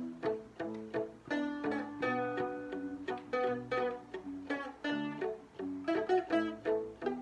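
Two Seagull Merlin dulcimers and a nylon-string classical guitar playing together: a quick, even stream of plucked notes in a repeating picking pattern.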